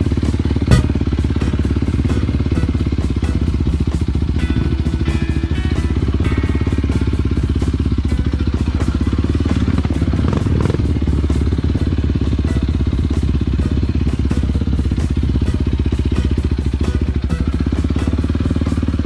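A motorcycle engine running steadily under way, a dense, even low rumble with rapid pulsing and no change in pace.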